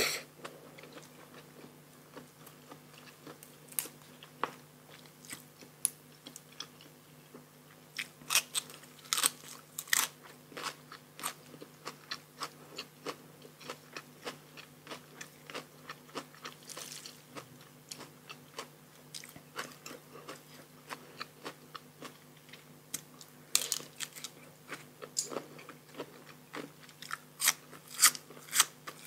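Close-miked eating: irregular crunchy bites and chewing of a Thai rice-noodle salad with raw shrimp and fresh raw vegetables. The crunching comes in louder runs about 8 to 11 seconds in and again near the end.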